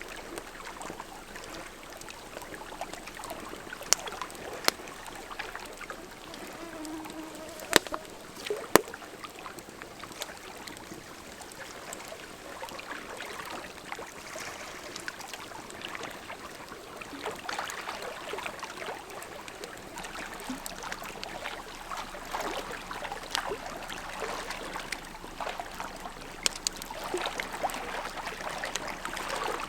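Large campfire burning with a continuous crackle and several sharp pops in the first nine seconds.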